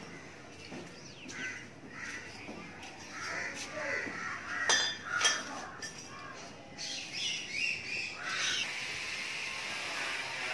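Birds calling outside, a few harsh calls loudest around the middle, over faint background voices; a steady hiss sets in near the end.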